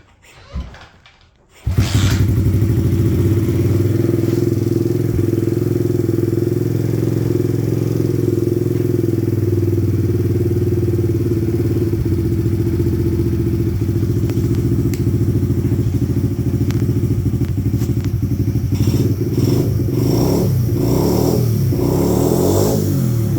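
2014 SSR 70 pit bike's small single-cylinder four-stroke engine starting about a second and a half in, then idling steadily.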